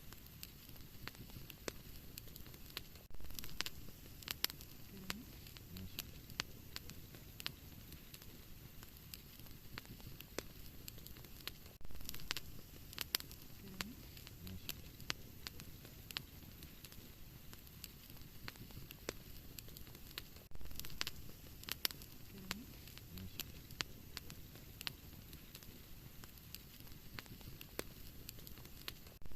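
Wood fire crackling in a fireplace: a soft low rumble of flames under a steady scatter of sharp pops and snaps, with brief louder flurries of pops about every eight or nine seconds.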